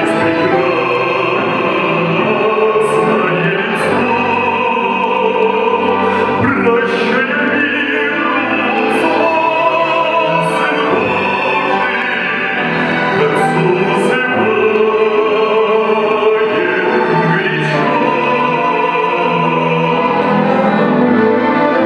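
Music: operatic singing over instrumental accompaniment, held at a steady loud level throughout.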